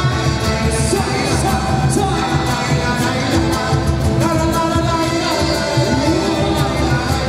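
A band playing, with a voice singing over a steady drum beat.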